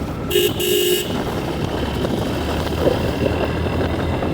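A vehicle horn honks twice in quick succession, two short blasts just under a second in, over the steady low rumble of a motorcycle ride with wind on the microphone.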